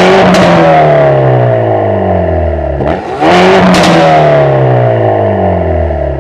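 Hyundai Veloster N's turbocharged four-cylinder engine, fitted with a mid-pipe exhaust modification, is revved twice about three seconds apart. Each time the revs jump up sharply and then fall back slowly, with exhaust pops and crackles on the way down.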